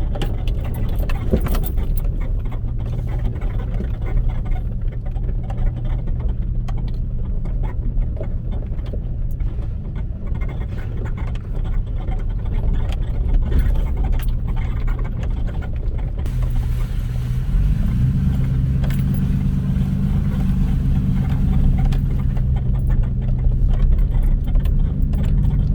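Motor vehicle driving, heard from inside: a steady engine drone with light rattling and clicking. About 17 seconds in, the engine note steps up in pitch and grows louder, then holds.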